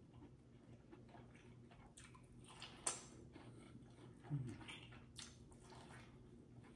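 Faint chewing and wet mouth clicks of a person eating a lamb chop, with one sharper click about three seconds in. A short low hummed 'mm' comes about four and a half seconds in.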